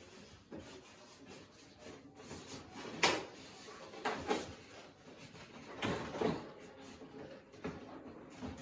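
Handling noises from a cardboard fan box being opened and unpacked: a series of sharp knocks and scrapes, the loudest about three seconds in, with pairs of them around four and six seconds in.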